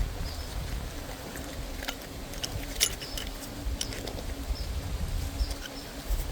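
Countryside ambience: short high chirps repeating over a steady low hum and rumble, with a few sharp clicks near the middle.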